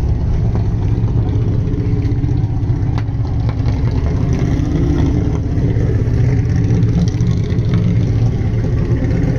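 A car engine running steadily at idle, a low, even pulsing rumble.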